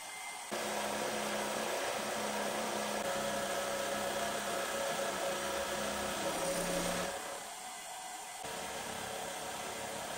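An electric motor in a workshop running steadily with a whirring hum. The sound changes abruptly about half a second in and again around seven and eight seconds in.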